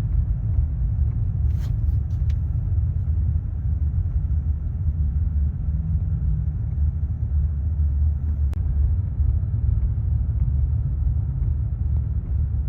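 Steady low rumble of road and engine noise inside a moving vehicle's cabin, with a couple of brief clicks about two seconds in.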